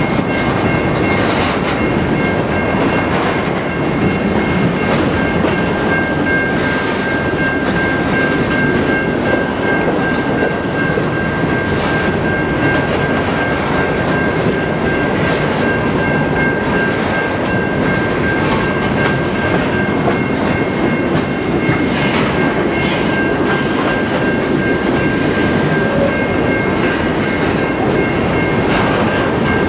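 Freight train of covered hopper cars rolling past close by: a steady rumble and clatter of steel wheels on the rails, with a thin high ringing tone held throughout.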